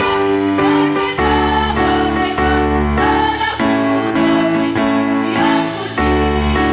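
Women's choir singing a slow piece with instrumental accompaniment, held notes changing in steady steps over a strong bass.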